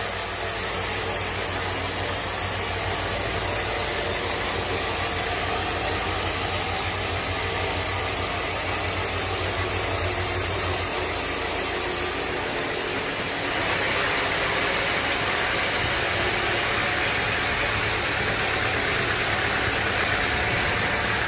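Sawmill machinery running steadily with engine noise and a low hum. About thirteen seconds in, the sound changes: the low hum drops and a brighter, hissier noise takes over.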